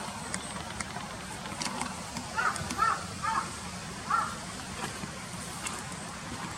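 A crow cawing four times in quick succession, the calls a little less than a second apart.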